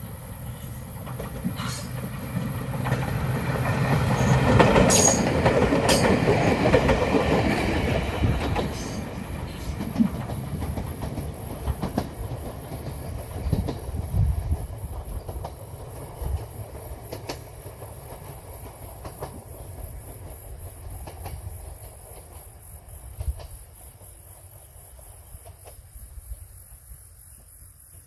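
Ueda Electric Railway Bessho Line 6000 series electric train passing. It grows loudest about five seconds in, then its wheels click over the rail joints as it moves off and steadily fades.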